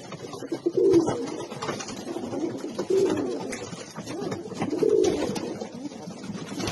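Racing pigeons cooing in the loft: low, warbling coos repeating every couple of seconds, the strongest about a second in, around three seconds and around five seconds.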